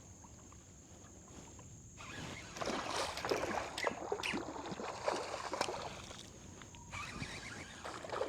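Irregular splashing and sloshing of water starting about two seconds in, as a hooked redfish thrashes and is brought alongside the boat.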